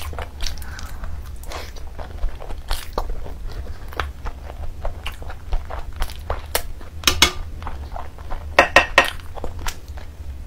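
Close-miked eating: chewing and biting into curried meat eaten by hand, full of short mouth clicks, with a cluster of sharper clicks about seven seconds in and again around nine seconds. A low steady hum runs underneath.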